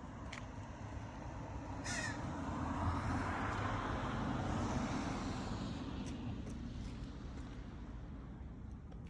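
A single short, harsh bird call about two seconds in. Under and after it, a rush of noise swells and fades over a few seconds.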